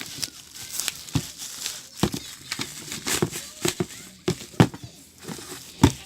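Packaging being handled during unboxing: plastic wrap and paper crinkling and rustling, with irregular clicks and light knocks.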